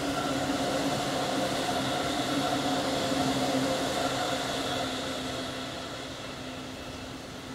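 Electric commuter train passing on a nearby track: a steady hum of several constant tones over the rolling noise of the wheels, fading away over the last two or three seconds as it pulls off.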